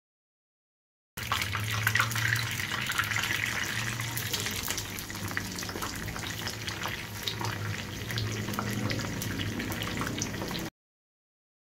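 Besan-battered naan with potato strips and onion frying in hot oil in a shallow pan, a steady sizzle with many small crackles over a low hum. It starts abruptly about a second in and cuts off abruptly near the end.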